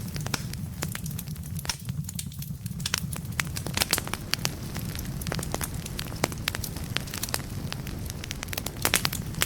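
Wood fire burning in a fireplace: a steady low rumble of flame with frequent sharp, irregular crackles and pops of burning logs.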